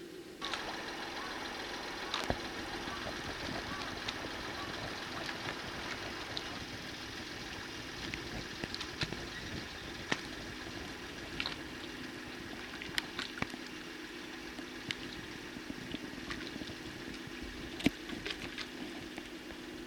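A steady machine hum at a constant pitch, like an engine running at idle, under an even hiss, with scattered sharp clicks.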